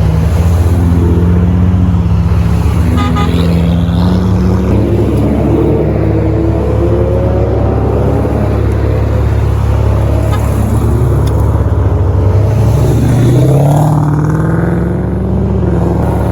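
Muscle car engine running on the road, a steady hum with the revs climbing about thirteen seconds in as it accelerates.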